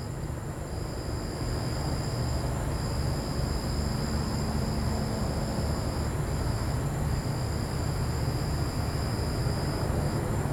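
Helicopter overhead, a steady low rotor rumble that grows slightly louder. Crickets trill alongside in a high steady tone that breaks off now and then.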